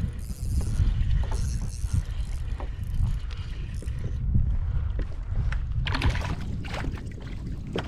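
Wind rumbling steadily on the microphone of a kayak on open sea, with water splashing against the hull and a few light knocks.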